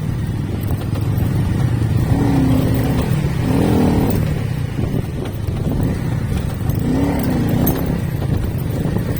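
Motorcycle riding along, its engine and the road and wind noise making a steady low rumble. Brief wavering pitched sounds come through about two to four seconds in and again around seven seconds.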